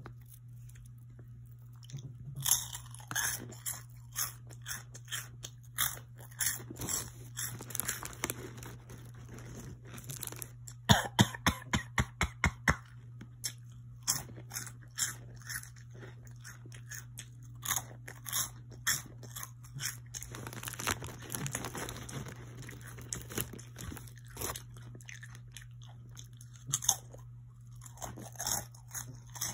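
Someone chewing crunchy Flamin' Hot Funyuns snack rings close to the microphone: irregular crisp crunches, with a quick run of loud crunches about eleven seconds in. A steady low hum runs underneath.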